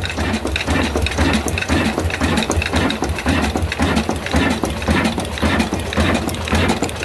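Old stationary diesel engine running steadily, with an even rhythmic chugging of several beats a second over a constant low hum.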